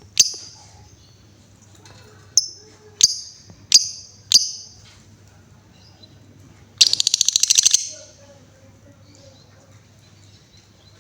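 Female lovebird calling: five sharp, high chirps over the first few seconds, then a fast rattling trill lasting about a second, the chattering 'ngekek' run of a lovebird in song. A low steady hum runs underneath.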